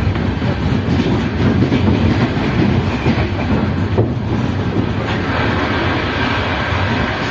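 Passenger train running on rails, with a steady rumble and wheels clattering over the rail joints. From about four seconds in, another passenger train passes alongside, adding a rushing hiss.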